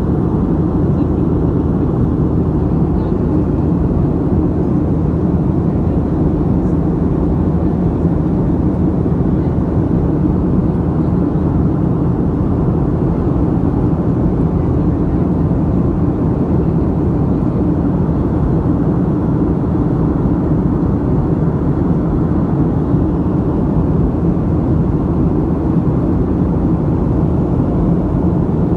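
Steady noise of an airliner's engines and airflow heard inside the passenger cabin, a constant low rushing drone without change.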